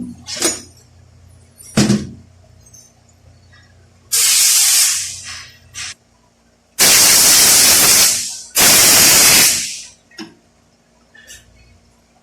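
Three loud bursts of pressurised spray hissing while transmission parts are being cleaned. The first burst comes about four seconds in, and the other two follow back to back from about seven to ten seconds in. A couple of short knocks come before them, in the first two seconds.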